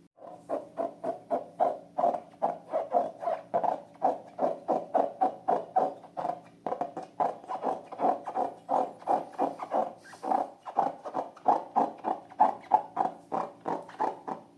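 Slime being squeezed and kneaded by hand, wet squishing at about four squelches a second, with a brief pause about six and a half seconds in.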